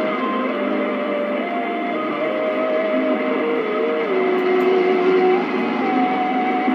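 Music from a 1476 kHz medium-wave AM broadcast, received through an Icom R71E communications receiver. Slow sustained notes change pitch every second or so under a steady hiss of static, and the sound is thin, with nothing above the narrow AM audio band.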